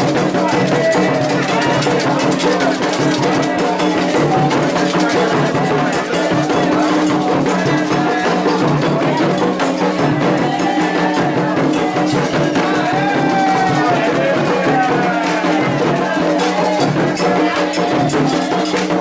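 Candomblé ceremonial music: drums and rattles keeping up a steady rhythm while voices sing a chant.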